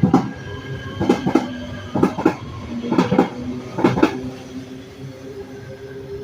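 A Metro A Line light-rail train's wheels clacking over rail joints or switch points, in pairs about once a second. The clacks stop about four and a half seconds in, leaving a steady hum.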